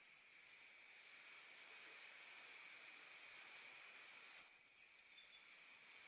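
Orange-headed thrush giving its thin, high 'ngecis' call: two long whistles that fall in pitch, one at the start and one about four seconds in, with softer, lower warbled notes between and after. This is the call used to lure a male thrush.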